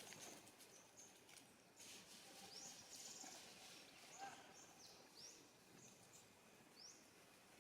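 Faint outdoor ambience with short, high, rising bird chirps about every second.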